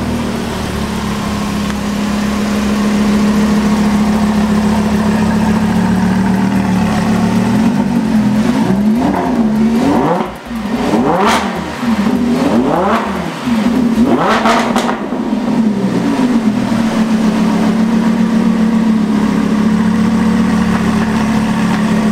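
Lamborghini Huracan's naturally aspirated V10 idling steadily, freshly started after winter storage. Then it is revved several times in quick succession, each rev rising and falling in pitch, before settling back to a steady idle.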